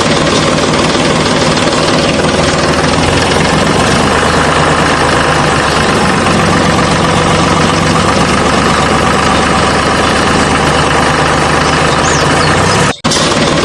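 Mini tractor's motor running steadily, with a brief sudden drop-out near the end.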